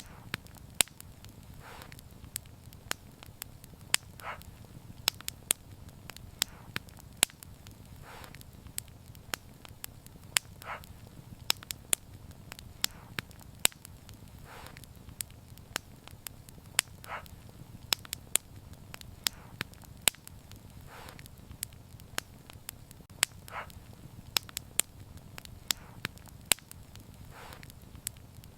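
Wood fire crackling, with frequent sharp pops and snaps over a low steady rumble, and a softer hiss every few seconds.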